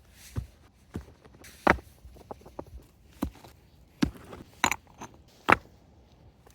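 Irregular sharp knocks and clinks, about seven in all, with a brief metallic ring on one of them near the middle: hard objects being handled and set down.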